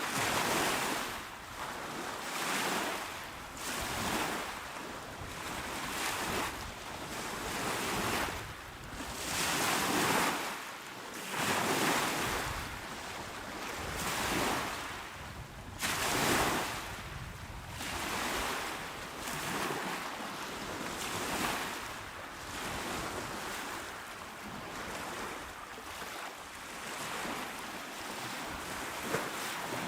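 Small, calm waves breaking and washing onto the shore, one after another every second or two, swelling and ebbing.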